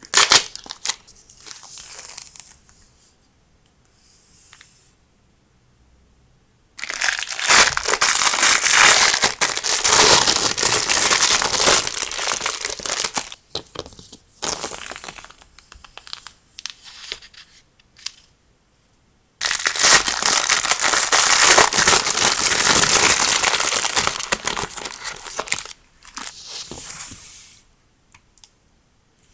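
Packaging crinkled and torn open by hand, in two long stretches of several seconds each, with shorter rustles and pauses between.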